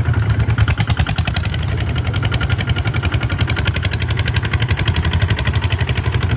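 Tractor engine running steadily and loud, with a fast, even beat of firing strokes.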